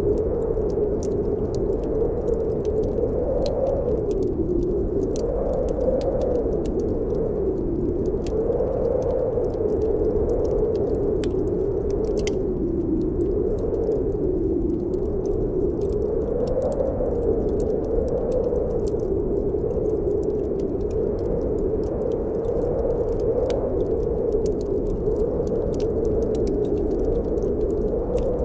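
Blizzard wind howling steadily, its pitch wavering slowly up and down, with a scattering of fine ticks throughout.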